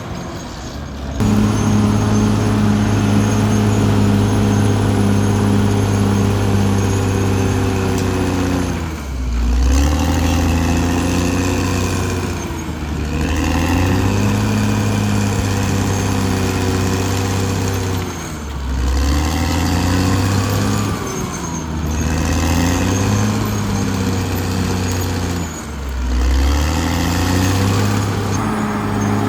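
Caterpillar D6R XL bulldozer's diesel engine running, its pitch dipping and recovering about five times as it takes and sheds load.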